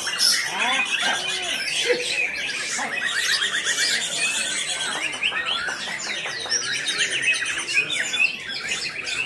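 Several white-rumped shamas singing at once: overlapping rich whistles, rapid trills and fast repeated notes, one song over another without a break.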